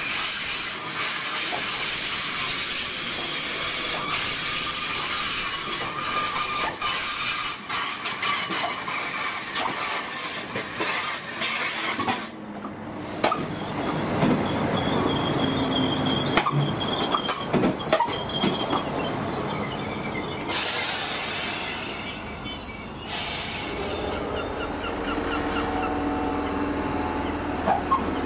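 Passenger train running through a station, a steady rumble with its wheels clicking over rail joints and squealing; the clicks come as a quick run about halfway through.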